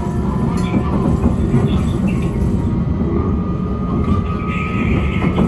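London Underground Hammersmith & City line train (S7 stock) running between stations, heard inside the carriage: a steady rumble of wheels on rail with a faint high whine over it and a few light clicks.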